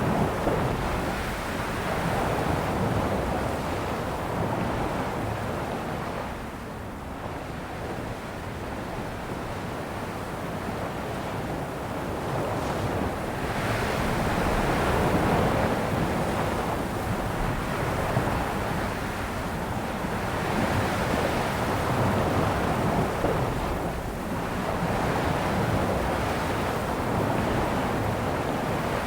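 Ocean waves washing onto a shore, the surf swelling and easing in slow surges every several seconds.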